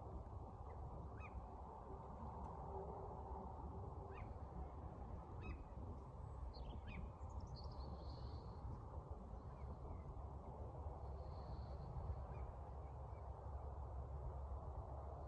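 Faint birdsong outdoors: scattered short chirps and a couple of brief buzzy notes, over a steady low background rumble.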